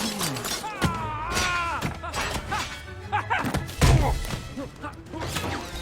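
Film soundtrack of music with slapstick thuds and knocks. Cartoon characters cry out in gliding yelps, and there is a heavy thud about four seconds in.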